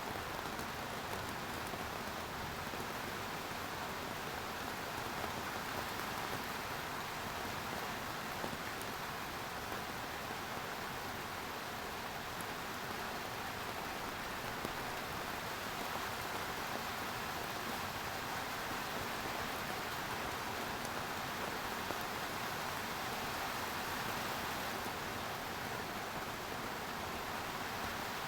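Steady rain falling, an even hiss of rain on surfaces with the odd faint drop tick.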